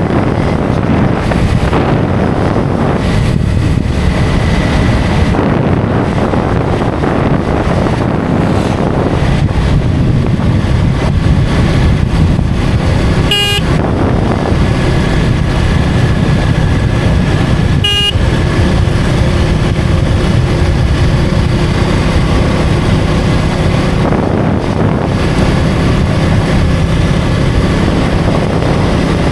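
KTM Duke 250's single-cylinder engine running steadily at road speed, mixed with wind rush. A vehicle horn gives two short toots about halfway through, a few seconds apart.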